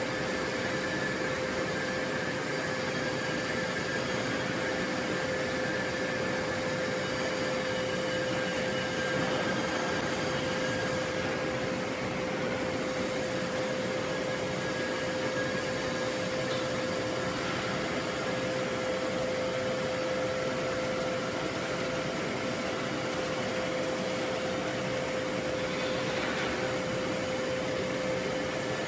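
Steady forging-shop machinery noise with a constant mid-pitched hum running through it. There are no hammer blows.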